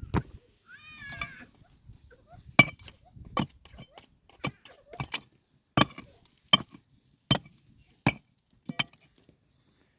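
A series of sharp chopping strikes, about one every 0.7 seconds, after a short high-pitched call about a second in.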